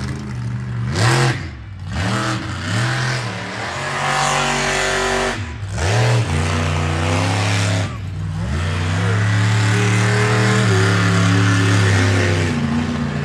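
Monster truck engine revving hard. The pitch drops sharply and climbs again when the throttle is lifted and reapplied about every two to three seconds, then it holds a long steady high rev near the end.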